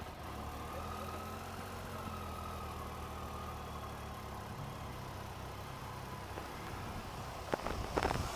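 Triumph Tiger 800 XRT's three-cylinder engine idling steadily just after starting, with two sharp clicks near the end.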